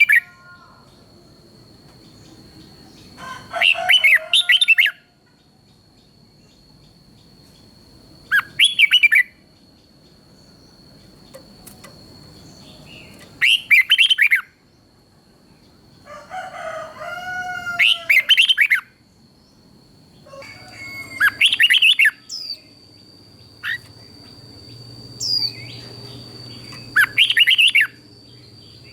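Red-whiskered bulbul singing: short, loud, warbled phrases repeated about every four to five seconds, with a few softer, lower warbles between them. A thin, steady high-pitched tone runs underneath.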